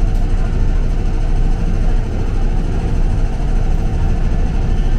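Steady low rumble of a 205 series electric commuter train running, heard from inside the carriage.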